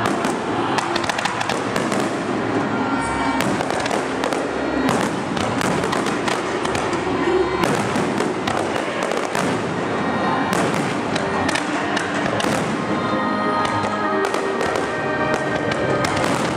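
Aerial fireworks shells bursting, many sharp bangs and crackles in quick succession, with music playing underneath that comes through more clearly near the end.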